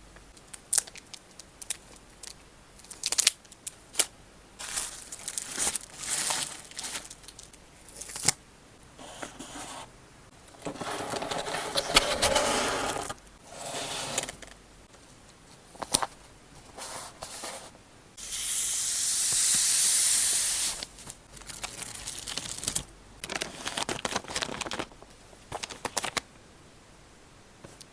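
Photocard packing handled close to the microphone: plastic sleeves and wrapping crinkling and scraping, with light taps and clicks. Two longer tearing sounds come about eleven and nineteen seconds in, over a steady background hiss from a noisy recording.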